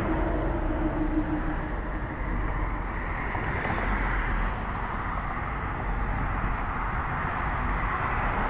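Steady, even rumble of vehicle engine noise, with a low hum fading out in the first second or two.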